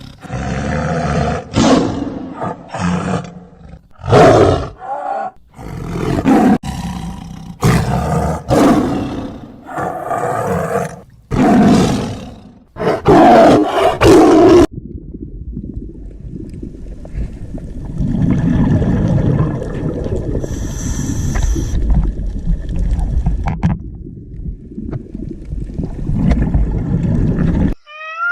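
A big cat roaring in a series of loud, separate calls for about the first half. After an abrupt cut it is followed by a steadier low rumble that runs until just before the end.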